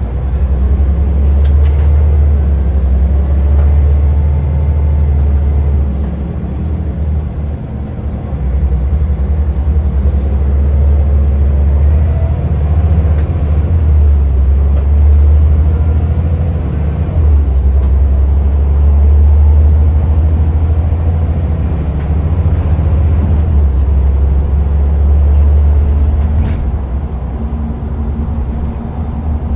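Diesel engine of a Scania L94UA articulated bus running steadily, its low rumble swelling and easing every few seconds as it pulls and backs off.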